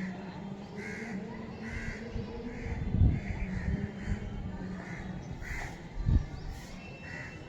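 Crows cawing repeatedly, roughly one to two caws a second, over a steady low hum, with two low thumps about three and six seconds in.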